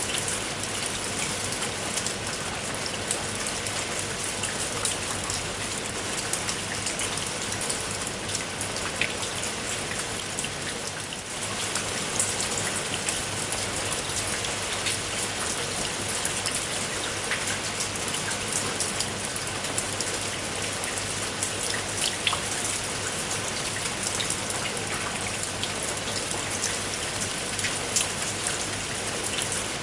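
Steady rain falling, with many separate drops ticking sharply on a surface over an even hiss. The sound dips slightly for a moment about eleven seconds in.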